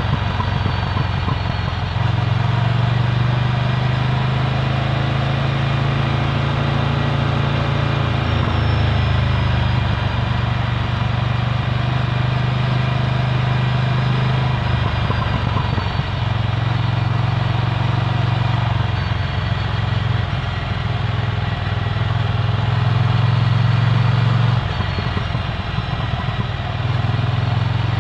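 Ducati Scrambler Full Throttle's L-twin engine with a Termignoni exhaust, running while the bike is ridden. The exhaust note rises and falls several times as the throttle opens and closes.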